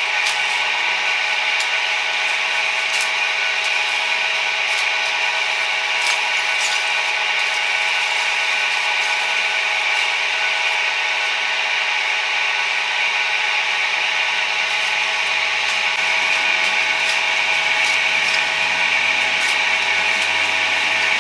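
A steady mechanical whir carrying several even, unchanging tones, with a few light clicks scattered through it and a faint low hum joining in after about fifteen seconds.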